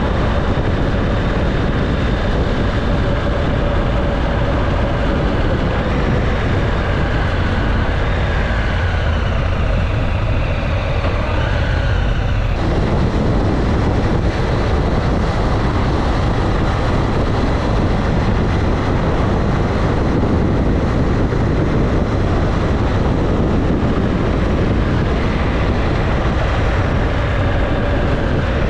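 Motorcycle engine running at road speed under heavy wind rush on the microphone. The engine note climbs for several seconds and drops suddenly about twelve seconds in.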